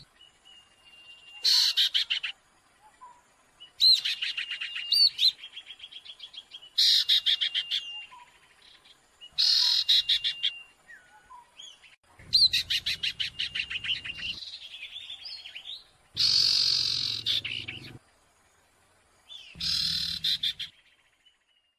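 Sirtu songbird in noisy, agitated song, the kind of call used as a bird-trapping lure: about seven bursts of fast chattering trills with a held high whistle note, each lasting a second or two and a few seconds apart.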